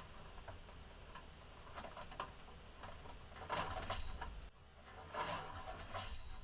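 Pet budgerigars moving about, making scattered light clicks and taps, then two louder rustling, scratchy stretches about three and a half and five seconds in.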